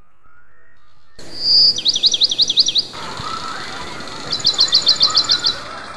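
A bird singing two runs of quick, high chirps, the first about six sweeping notes and the second about ten faster notes near the end. Under it is a steady rush of water pouring from a pipe onto rocks into a shallow spring-fed stream.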